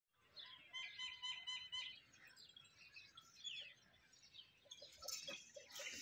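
Small birds chirping faintly: a quick run of about five repeated high notes, then a scatter of short falling chirps.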